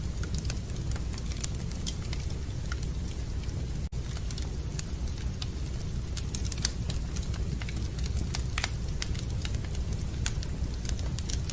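Wood fire in a fireplace crackling and popping with many irregular sharp snaps over a steady low rumble. The sound cuts out for an instant about four seconds in.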